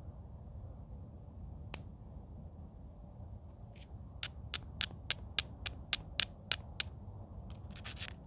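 Flintknapping: a homemade bopper strikes stone once sharply, then a run of about ten quick, sharp clicking taps, about three a second, as a thick spot is knocked off the stone's edge. A scraping clatter of stone on stone follows near the end.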